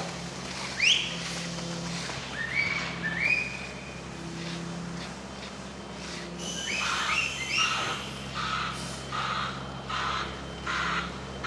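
Birds chirping: a few quick rising whistles early on, then a run of short repeated notes over the second half. Under them runs a steady low engine hum.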